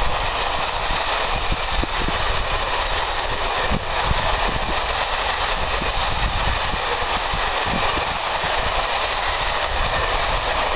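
A train passing on the line with a loud, steady rolling noise and scattered clicks of wheels over the rails.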